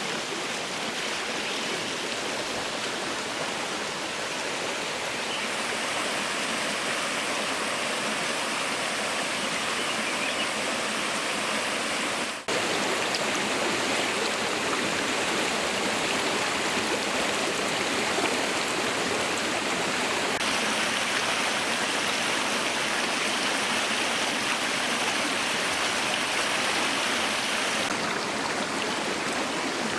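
Waterfall and stream water rushing steadily over rocks, a dense, even hiss. It cuts out for an instant near the middle, then carries on with a slightly changed tone.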